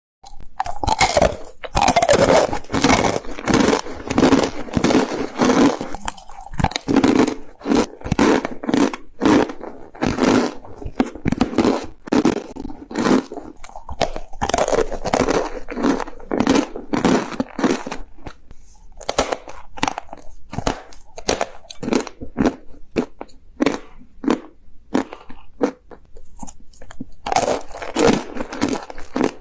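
A person biting and chewing crunchy corn starch, a dense, irregular run of sharp crunches that thins out for a while past the middle.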